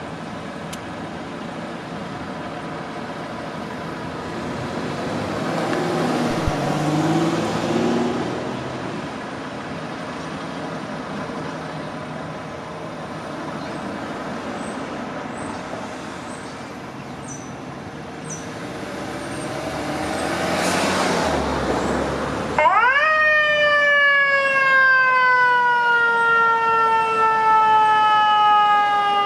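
Street traffic noise, then about three quarters of the way through a fire engine's Federal Q2B mechanical siren winds up sharply. It coasts slowly down in pitch, and near the end it winds up again.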